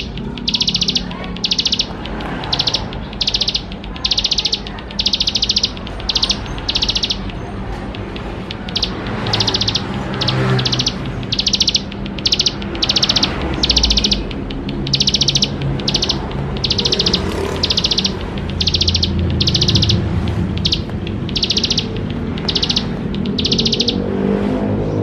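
Ciblek sawah (a prinia) singing a fast string of short, high, buzzy trilled notes, each under half a second, repeated about once or twice a second with short pauses between runs. A lower background murmur runs beneath.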